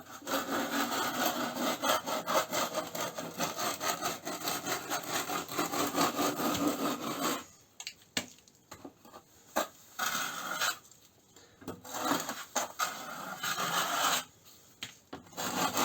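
A wetted plastering rule dragged along the beacons over fresh tile-adhesive render, scraping and levelling it. One long continuous scrape for the first seven seconds or so, then several shorter strokes with pauses between them.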